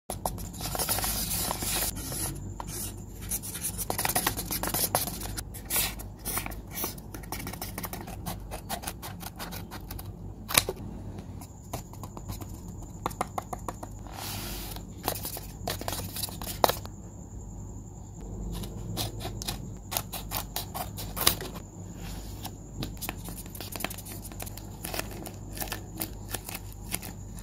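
Close-up paper handling: a hand-drawn paper blind bag being rustled, scraped and crinkled, with many sharp clicks scattered throughout.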